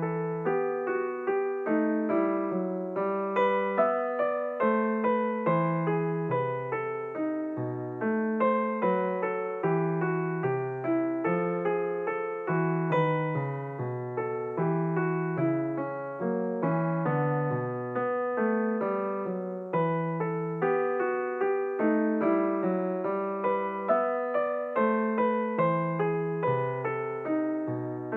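Background music played on piano or electric piano: a steady, continuous run of notes with a melody over a moving bass line.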